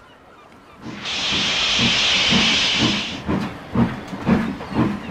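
Steam locomotive letting off a loud hiss of steam for about two seconds, then starting away with slow, regular chuffs, about two a second.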